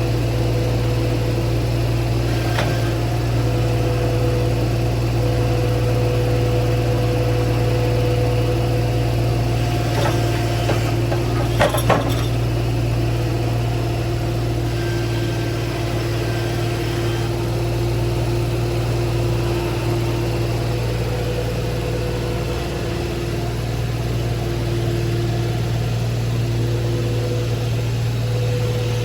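The gasoline engine of a Mechmaxx portable bandsaw mill running steadily. A few sharp clicks, the loudest pair about 12 seconds in.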